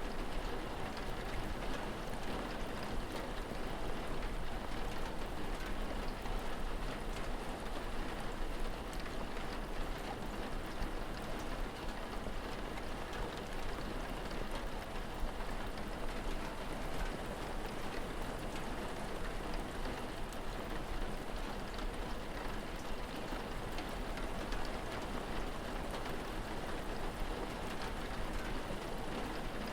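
Steady rain falling on surfaces: an even hiss with many fine drop ticks, over a low steady rumble.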